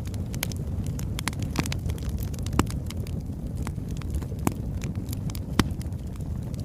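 Wood fire burning, with frequent sharp crackles and pops of burning logs over a steady low rumble. Three louder pops come about 2.5, 4.5 and 5.5 seconds in.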